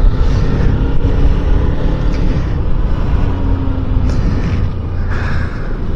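Motorcycle being ridden on the road, its engine running with a steady deep rumble.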